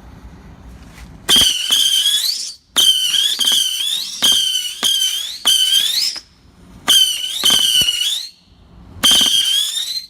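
Whistling firework rockets going off in quick succession, each a sharp pop followed by a shrill whistle that dips slightly and then rises in pitch before cutting off. The whistles come in clusters, with short gaps between them.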